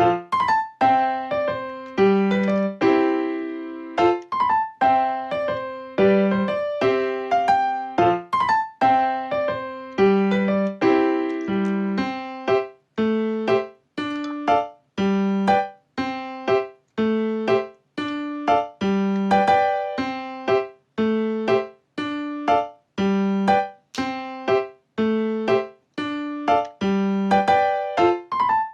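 Background piano music: a simple melody of single struck notes, each ringing and fading, with a few short breaks between phrases.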